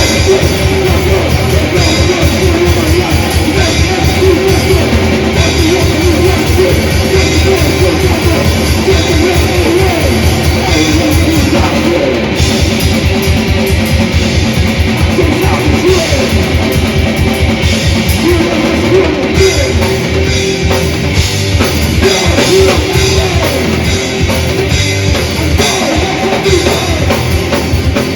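A death/thrash metal band playing live at full volume: fast, dense drumming under distorted electric guitar riffs.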